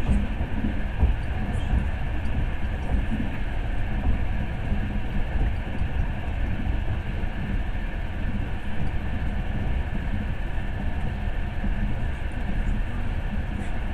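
Russian long-distance passenger train carriage in motion, heard from inside: a steady low rumble of the wheels and running gear on the rails.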